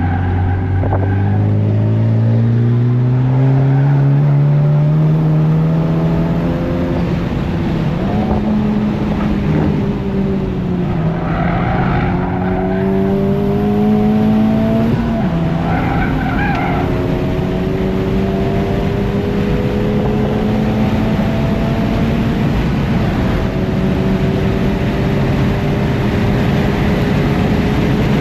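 Honda Civic Type R's turbocharged 2.0-litre K20C1 four-cylinder engine heard onboard at track speed, rising steeply in pitch for the first several seconds under acceleration. It keeps climbing more slowly after that, with a sharp drop in pitch about fifteen seconds in, over steady road and wind noise.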